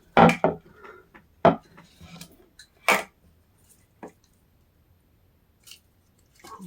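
Several separate sharp knocks and clatters of hard objects being handled and set down, spaced a second or so apart, with quiet between them.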